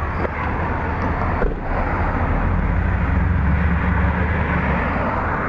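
Street traffic noise: a low, steady rumble of passing vehicles that swells for a couple of seconds midway.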